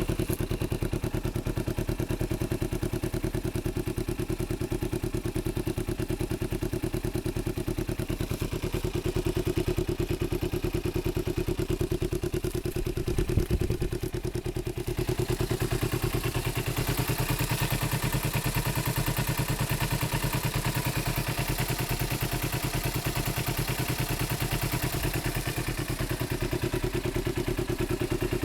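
Kawasaki ZZ-R250 parallel-twin engine idling steadily through a Tsukigi racing muffler, an even pulsing exhaust note. A brief knock comes about 13 seconds in, and the tone turns brighter for roughly ten seconds before settling back.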